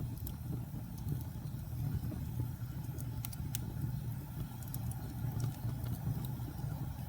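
Fire burning with a steady low rumble and scattered sharp crackles and pops, several of them close together near the middle.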